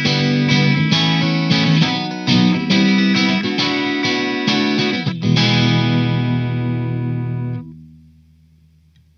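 Soloking MS-11 Classic MK II electric guitar playing rhythmic strummed chords, then letting one chord ring for about two seconds before it is muted, leaving a short silence near the end.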